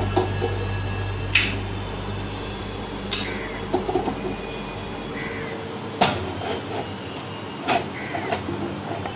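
Lit gas stove burner with a few short, sharp knocks and clinks spaced a second or two apart. The last one, near the end, is a metal kadai set down on the burner grate.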